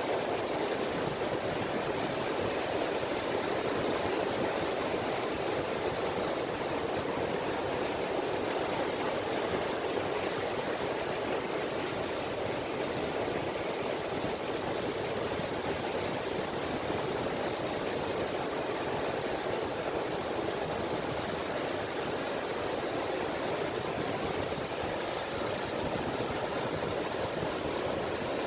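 Gentle sea ripples washing on a beach shore, a steady, even wash of water without distinct breaking waves.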